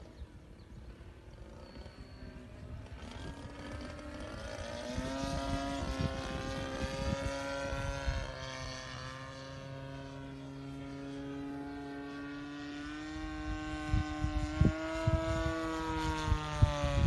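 DLE 20cc single-cylinder two-stroke gasoline engine of an RC model airplane running in flight, its propeller drone fading in a few seconds in and growing louder toward the end, with the pitch slowly bending up and down as the plane moves about.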